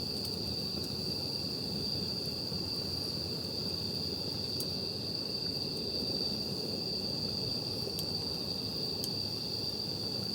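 Crickets trilling steadily at one high pitch over a low, even rumble, with a few faint sharp pops from a campfire.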